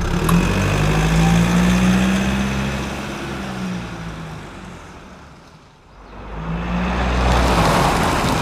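Engine of a homemade mini tractor running. It fades steadily for several seconds, then grows loud again near the end.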